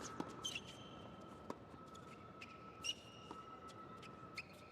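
Tennis shoes squeaking on the court surface: three short, high squeaks, one about half a second in, one near three seconds and one just past four seconds, with a few light ball taps and a faint steady high tone underneath.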